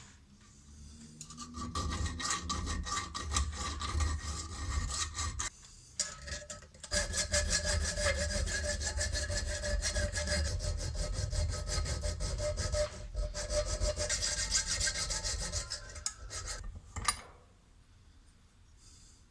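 Abrasive rubbing and rasping on a steel spanner during restoration, in two long spells with a short pause between them, ending with a sharp knock.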